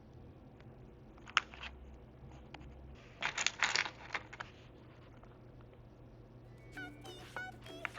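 Small plastic miniature food pieces and tiny dishes clicking and clattering as they are handled and set down: a single click about a second and a half in, then a quick cluster of clicks around three to four seconds in.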